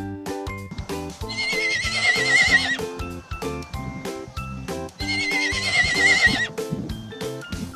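Foal whinnying twice, each call a wavering whinny of about a second and a half, over a light background music track.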